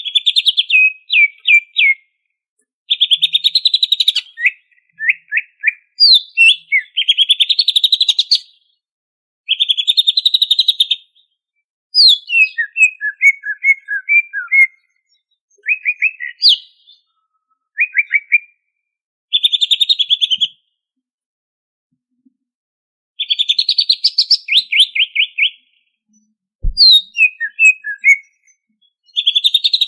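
Greater green leafbird (cucak ijo) singing: a run of quick trilled phrases, each about one to two seconds long, broken by short pauses, some phrases sliding up or down in pitch.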